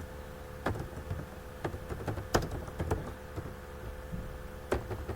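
Computer keyboard being typed on slowly, keys clicking one at a time at an uneven pace, over a steady faint hum.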